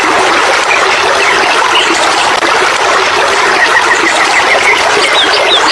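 Steady rushing of stream water, with small birds chirping over it: a quick run of short notes just past halfway and more chirps near the end.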